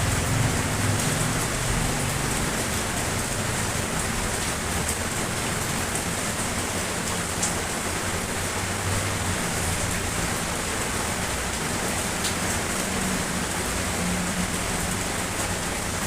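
Steady rain falling, an even hiss with scattered sharp drop ticks. A faint low rumble comes and goes underneath.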